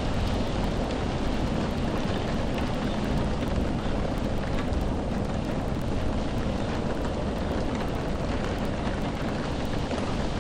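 Steady rain: a dense, even hiss with a deep low rumble underneath and the odd distinct drop.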